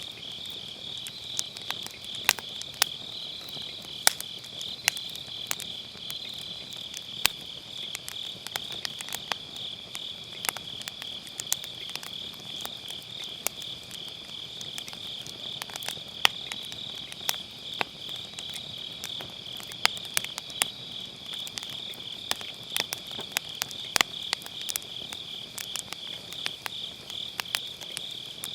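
Firewood burning in a round fire pit, crackling with irregular sharp pops, a few of them louder. Behind it, autumn grass insects chirp in a steady, fast-pulsing chorus.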